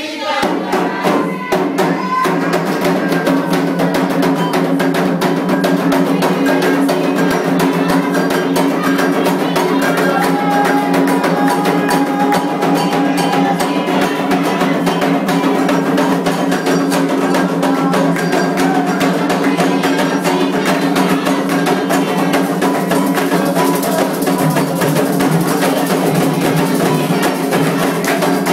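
Candomblé ritual drumming: atabaque hand drums with a struck bell keep up a fast, continuous rhythm, with a steady held tone sounding underneath.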